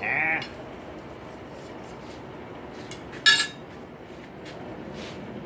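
Blacksmith's hammer striking a punch into a rail spike on the anvil: one loud, sharp metallic blow with a short ring about three seconds in, with a few light metal clinks of tools around it.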